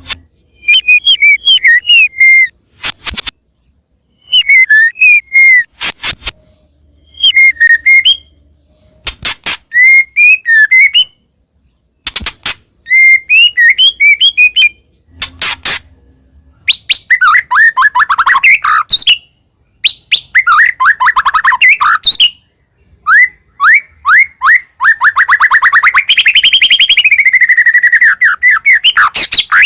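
White-rumped shama (murai batu) singing loudly. Short phrases of whistled notes come every few seconds, with sharp clicks between them; from about two-thirds of the way in the song turns to long, fast trills with sweeping notes.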